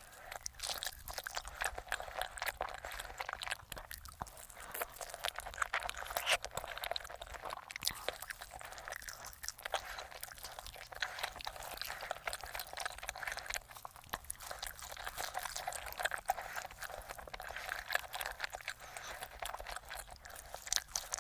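Close-miked eating of roasted chicken dipped in thick sauce: steady chewing and biting with crunching and wet mouth sounds, a dense run of small clicks and crackles.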